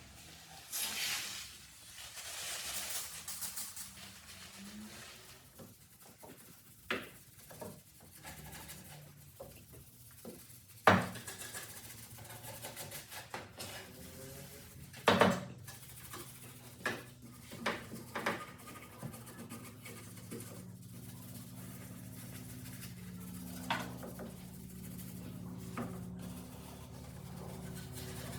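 A hissing spray for about two seconds, about a second in, then scattered sharp knocks and clicks of hard objects being handled and set down, over a faint steady low hum that grows in the second half.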